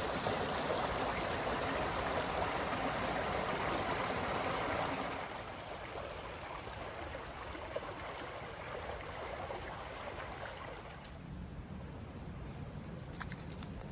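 A babbling brook: water running and trickling over stones in a steady rushing hiss. It drops in level about five seconds in and grows softer and duller near the end.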